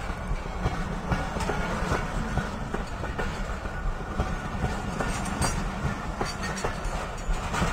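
Pakistan Railways passenger train passing close by at speed: a steady low rumble with irregular clicks of the wheels over the rail joints.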